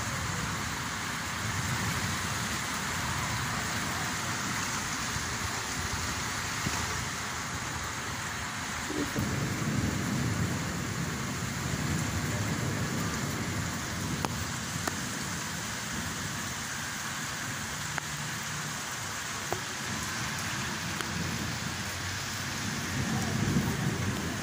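Steady rain falling in a thunderstorm, with low rumbles of thunder building about nine seconds in and again near the end.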